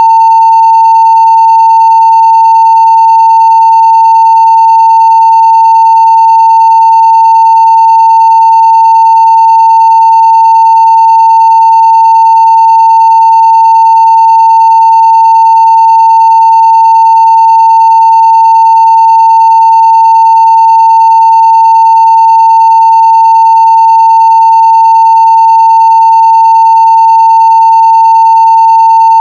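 Steady 900 Hz sine-wave test tone at full scale (0 dB): one unbroken, unvarying loud pitch with faint higher overtones.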